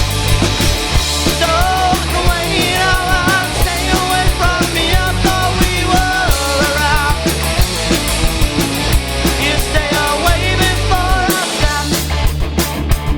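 Live rock band playing a punk-rock style song: drums, bass and electric guitars with a wavering melody line over them. Near the end the low end drops out for a moment before the full band comes back in with heavy drum hits.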